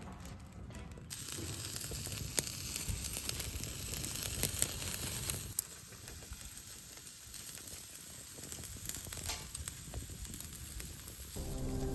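Food sizzling in a hot pan, a steady hiss with scattered pops, starting about a second in and dropping quieter about halfway through.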